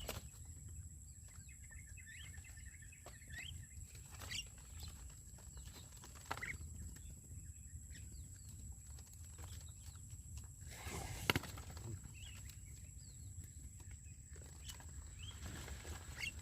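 Birds chirping faintly, with scattered short clicks and a louder rustling knock about eleven seconds in.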